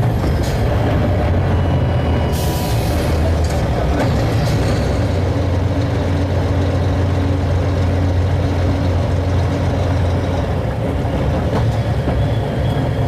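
Scania R-series truck's diesel engine running steadily under load, held in one gear at even revs where a change-up was needed. A brief hiss comes about two seconds in.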